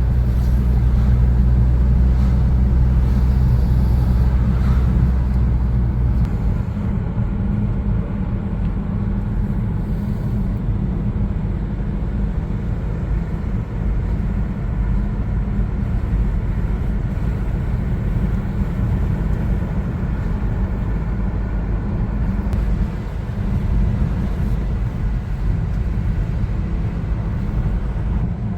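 A car driving, with a steady low engine and road rumble. It is smoother for about the first six seconds and rougher after that.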